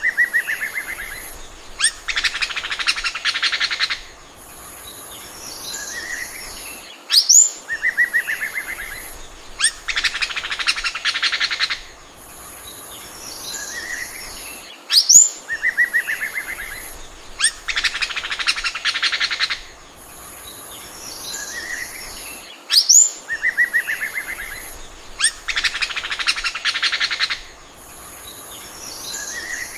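Oriental magpie-robin singing: a rising whistle, a short trill and a long fast rattle of notes, the same phrase repeating about every eight seconds. A high thin steady buzz comes and goes behind it.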